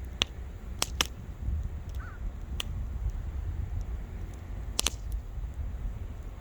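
Wood fire crackling: sharp pops at irregular intervals over a low rumble, the loudest about a second in and a cluster just before five seconds.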